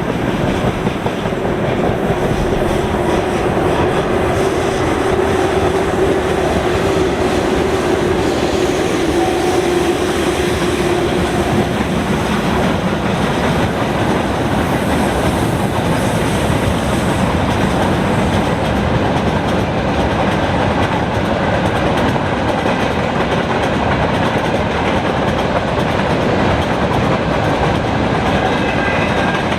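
Freight train rolling past at speed: steady, continuous wheel-on-rail noise, with a held hum through roughly the first ten seconds.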